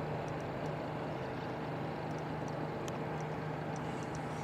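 Steady engine hum with a low drone and a fainter higher tone, unchanging throughout.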